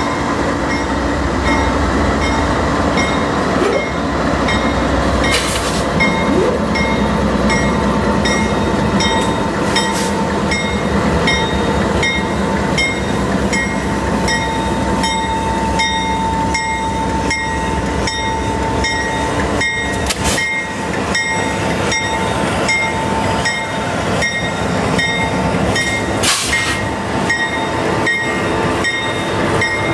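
A consist of CN diesel freight locomotives passing close by, engines running over a steady rumble of wheels on rail. A regular clicking comes about one and a half times a second, and a thin steady tone is strongest through the middle. A few sharp knocks stand out.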